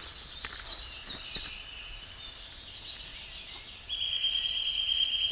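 Songbird singing outdoors: a quick run of high chirping notes in the first second and a half, then a steady high buzz from about four seconds in.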